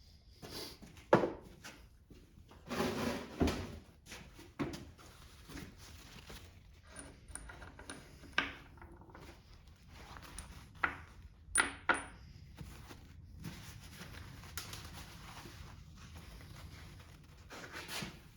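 Hand tools and small metal engine parts clinking and knocking while a Kohler small engine is taken apart: scattered sharp metallic clicks and short clatters, with a busier run of clattering about three seconds in.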